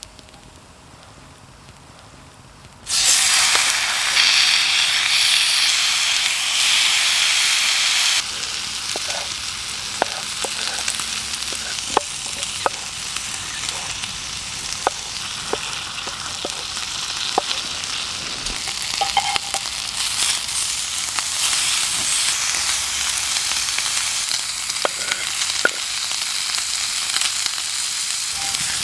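Food frying in a hot pan over a campfire: a loud sizzle bursts in about three seconds in as the food goes into the pan, eases after a few seconds into a steadier sizzle with scattered pops, and swells again later on.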